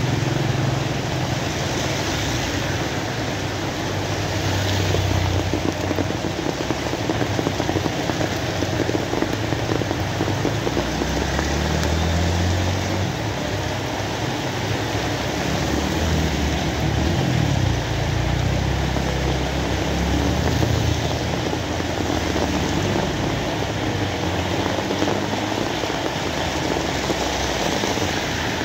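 Steady rain, an even hiss with no breaks, over a low, shifting rumble.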